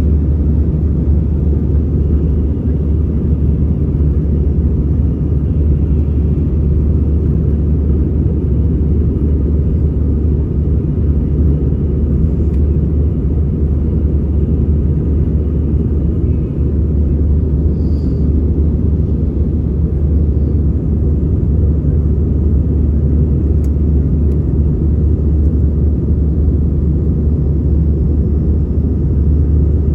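Airbus A320 in flight, heard inside the passenger cabin: a steady low rumble of engine and airflow noise that stays even throughout.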